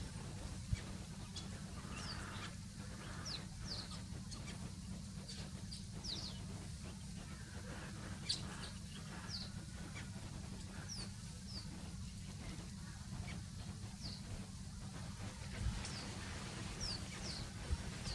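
Birds calling: short, high chirps that slide downward, repeated every second or so, over a steady low rumble.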